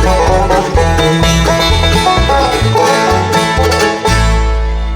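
Bluegrass band playing the instrumental close of the song: banjo picking over guitar with a steady low pulse, settling onto a held final chord about four seconds in.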